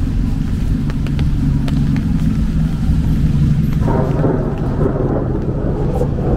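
Rain on a city street: scattered drops tap sharply over a steady low rumble, and a rougher hiss joins about four seconds in.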